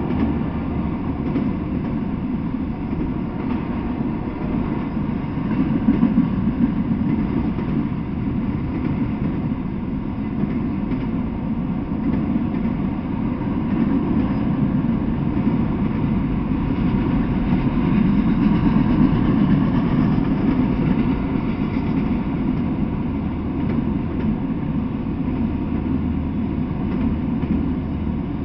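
Freight train of autorack cars rolling steadily past, a continuous noise of steel wheels running on the rails.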